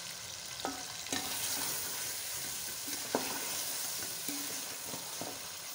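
Cubed potatoes in tomato masala sizzling as they fry in oil in a metal pot, being stirred with a spoon. A few short clicks of the spoon against the pot sound through the steady sizzle.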